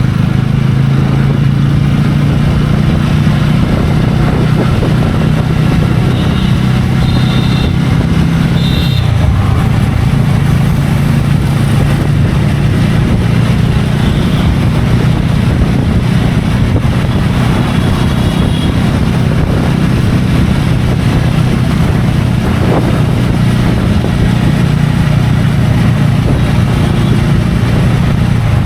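TVS Ronin single-cylinder motorcycle engine running steadily while riding, with a constant rush of wind noise on the helmet-mounted microphone.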